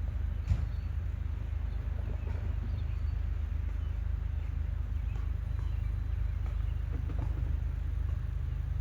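Loaded coal freight train passing: a steady low rumble with scattered light clicks of wheels on the rails.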